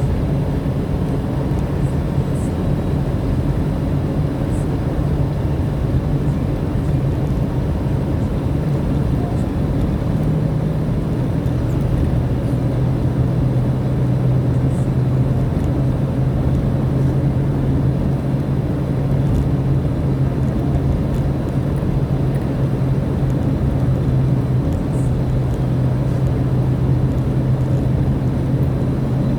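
Car engine hum and road noise heard from inside the cabin while driving, steady throughout, the engine note shifting slightly in pitch about ten seconds in.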